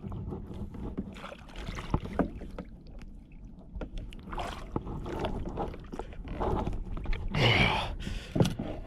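Knocks, clicks and water sloshing against a plastic fishing kayak as a large Spanish mackerel is landed, with a louder rush of noise about seven and a half seconds in and a sharp knock just after.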